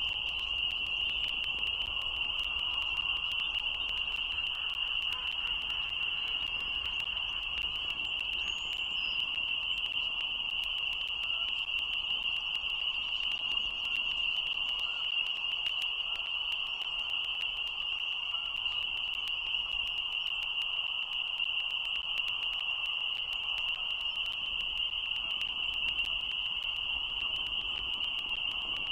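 Dense chorus of spring peepers: a steady high-pitched din that never pauses, over a faint low rumble.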